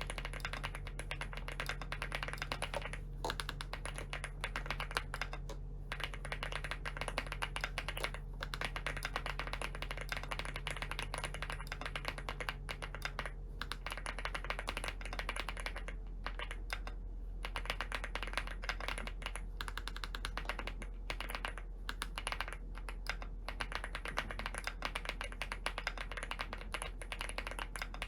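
Fast, continuous typing on a custom mechanical keyboard, dense key clacks with a few brief pauses. A low hum underneath stops about halfway through.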